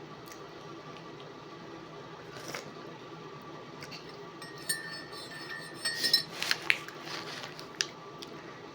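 A few sharp clicks and clinks of tableware being handled at a meal, bunched in the second half, over a steady low background hum.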